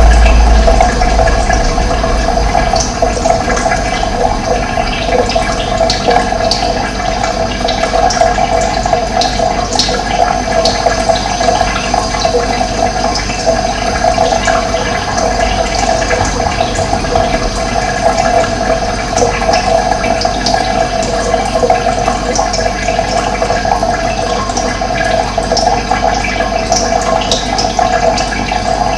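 Running water flowing steadily, a continuous rushing and splashing, with a low rumble that fades out in the first second.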